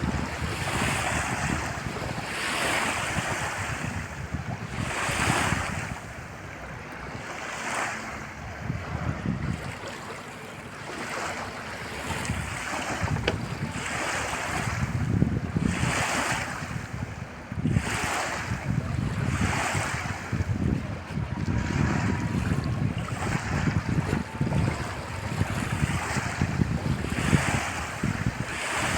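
Water washing and splashing in a repeating rhythm, a surge about every one and a half to two seconds, with wind rumbling on the microphone underneath.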